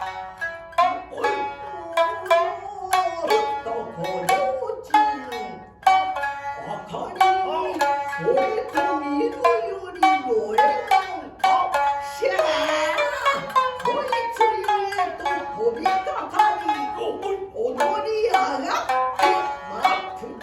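Shinnai-bushi jōruri: a singer's long, wavering, sliding chant over two shamisen, the main shamisen and the higher-tuned uwajōshi, plucking a steady run of notes.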